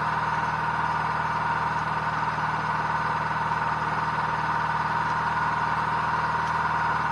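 A steady machine hum that does not change: a high whine over a low buzz.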